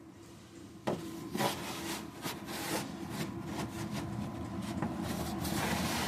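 Irregular scraping and rubbing with scattered clicks and knocks, starting suddenly about a second in and continuing.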